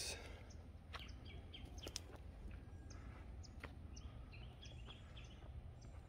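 Quiet outdoor ambience with a few short, faint bird chirps scattered through it and a few soft clicks.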